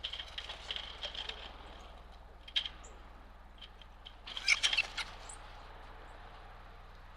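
Small birds chirping at a backyard feeder: scattered short high chirps, with a single sharp note about two and a half seconds in and a louder flurry of chirps a little after four seconds.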